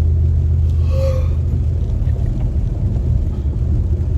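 Low, steady rumble of a car idling, heard from inside the cabin, with a short faint hum about a second in.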